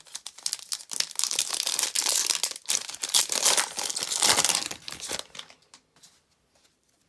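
Foil wrapper of a trading card pack crinkling and tearing as it is opened by hand, for about five seconds before dying away.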